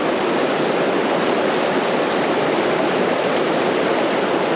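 Creek water rushing steadily over rocks close by, an even, unbroken rush of moving water.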